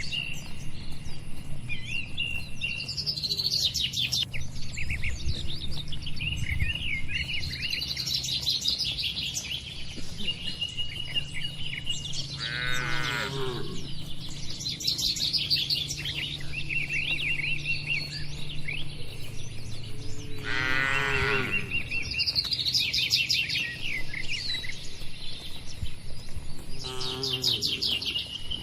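Cattle calling twice, each a falling call of about a second, over near-continuous chirping of small birds.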